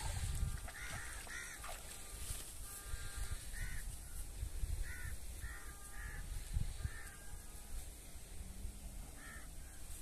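A bird calling again and again: short calls, roughly one a second, some in quick pairs. There are wading splashes in shallow water at the very start.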